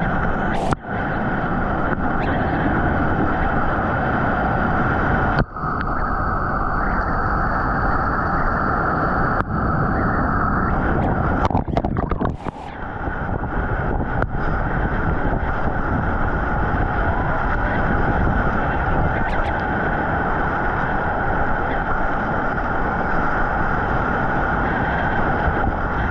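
Steady rush of whitewater rapids around a kayak, broken by a few abrupt cuts.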